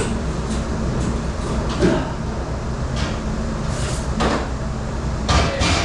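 Dishes and racks clattering and knocking in a commercial dish room over the steady hum of kitchen machinery, with several sharp clanks, the loudest cluster near the end.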